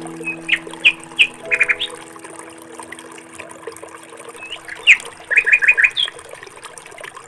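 Small birds chirping: short, sharp calls scattered through the first couple of seconds, one louder call about five seconds in, then a quick run of four chirps.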